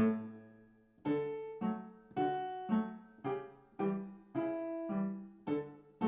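Piano played slowly with both hands, a simple melody over a bass accompaniment. Notes are struck together about every half second, each ringing and fading, after a longer held note at the start.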